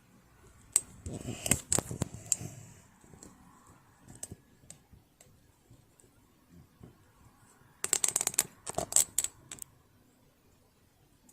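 Small hard clicks and clatter of metal parts and tools being handled while a household sewing machine is taken apart. There is a burst of clatter about a second in and a quick run of clicks about eight seconds in, with scattered ticks between.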